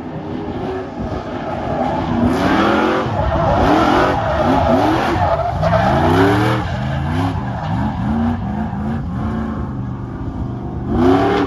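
Racing motorcycle engine revving hard, its pitch climbing and dropping back again and again as it works through the gears, with rushing wind noise.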